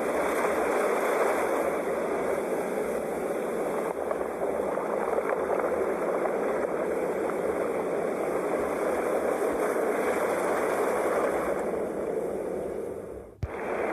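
Sea waves washing on the shore in a steady, unbroken rush of surf. Near the end it briefly drops away with a click and then resumes.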